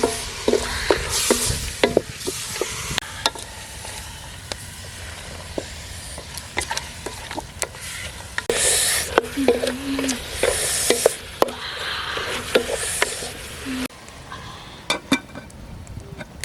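Food frying in a pan, stirred with a utensil that taps and scrapes against the pan over a steady sizzle. The sizzle surges louder twice midway and drops off near the end.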